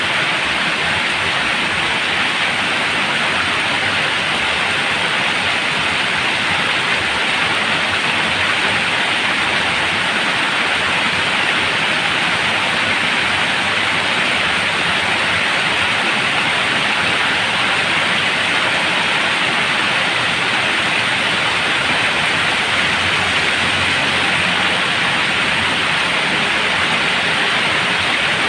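Heavy rain falling steadily: a loud, even hiss with no breaks or separate drops standing out.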